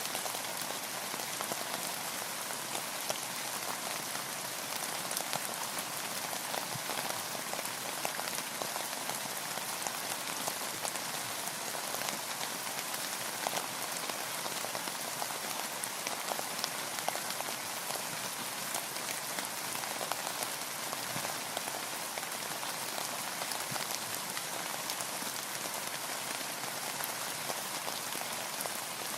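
Steady rain: an even hiss of countless drops with many small ticks of single drops, holding constant with no lull.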